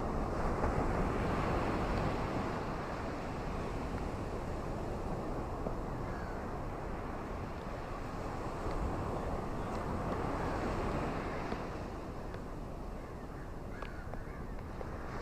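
Ocean waves washing ashore, a steady rushing that swells twice, near the start and again around ten seconds in.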